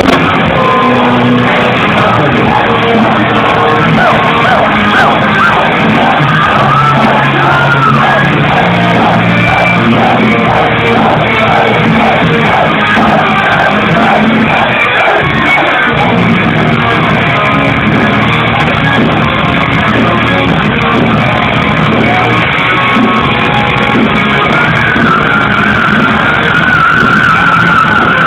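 A power metal band playing loud rock music live in concert, heard from among the audience. Near the end a wavering held note rises over the band.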